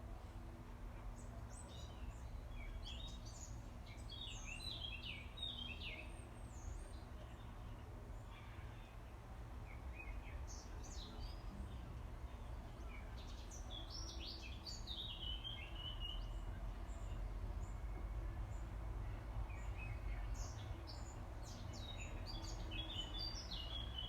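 Small birds chirping and singing in short scattered bursts, over a steady low background rumble.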